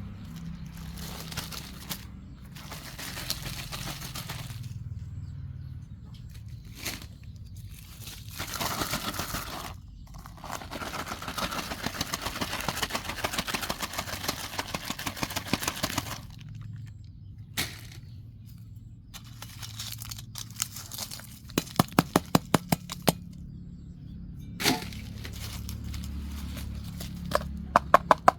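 Plastic rubbish rustling and crinkling as it is handled, in several bursts of a few seconds each over a low steady rumble. About three-quarters of the way through comes a quick run of sharp clicks, about eight a second.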